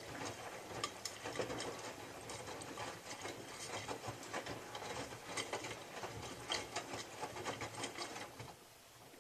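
Miele W3744 washing machine drum turning during the wash, the laundry tumbling with dense rapid clicking and rattling. It stops about eight and a half seconds in.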